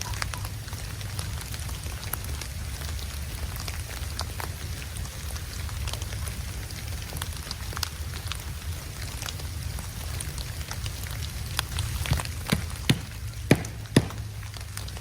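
Blizzard wind rumbling steadily, with scattered light ticks of snow hitting a surface and a few sharper clicks about twelve to fourteen seconds in.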